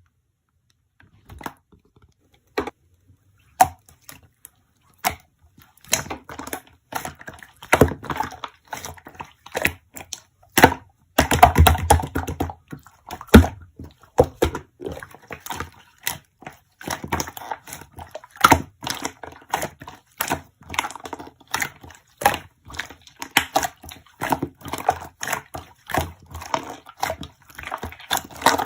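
Slime being squeezed and worked by hand, giving irregular sticky clicks and small pops that begin about a second in and grow denser, loudest around the middle.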